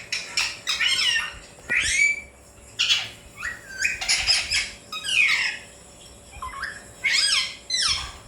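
Alexandrine parakeet giving a series of short, harsh squawking calls, many of them sweeping down in pitch, with a brief lull about two-thirds of the way through.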